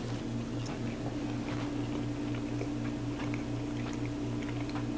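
A person chewing a bite of syrup-covered pancake, heard as faint, scattered small clicks, over a steady low hum in the room.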